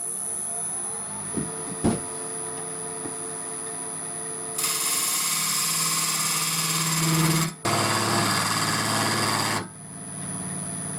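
Wood lathe running with a steady whine while a turning tool cuts a tenon on the spinning wood blank: two loud spells of cutting, the first starting a little before halfway and a brief break between them.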